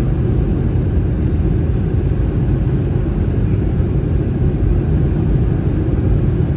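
Steady low rumble of an Airbus A319's cabin in flight: the CFM56 engines and the air rushing past the fuselage, unchanging throughout.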